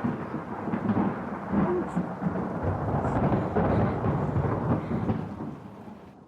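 Rolling thunder: a deep, continuous rumble that fades away near the end.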